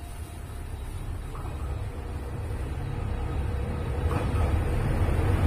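Diesel limited express train pulling into the platform, a low rumble growing steadily louder as it approaches.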